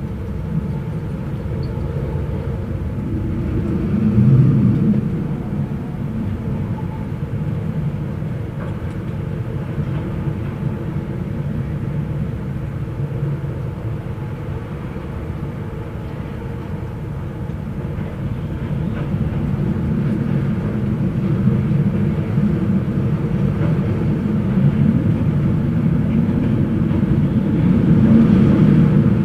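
Wind blowing with a steady low rumble, gusting louder about four seconds in and again near the end.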